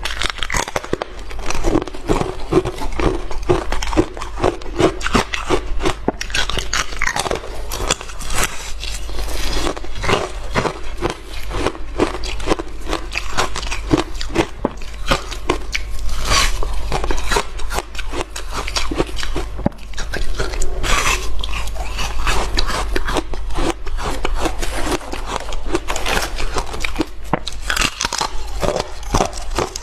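Hard frozen ice being bitten and chewed close to the microphone: a dense run of sharp crunches and crackles.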